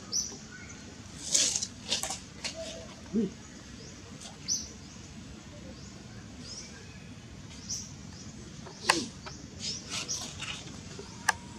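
Birds chirping in short, high notes every second or two, over a few sharp clicks and rustles, the loudest about a second in and again about nine seconds in.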